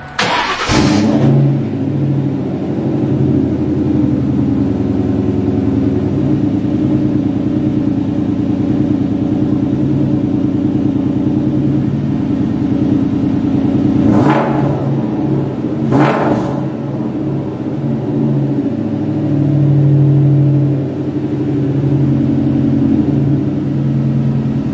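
2001 Mustang GT's 4.6-litre V8 cold-starting: it catches with a burst at the very start, then settles into a steady idle. Two brief sharp sounds come a couple of seconds apart around the middle, and the idle swells louder a little later.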